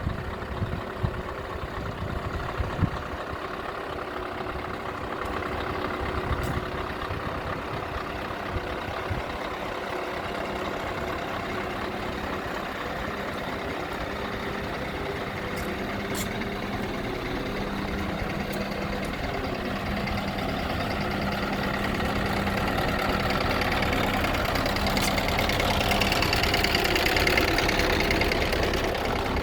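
Scania R500 truck's diesel engine idling steadily, growing gradually louder and brighter over the last several seconds.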